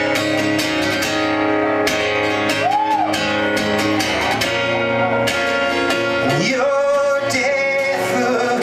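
Live rock song: strummed guitar chords with a male voice singing between lyric lines.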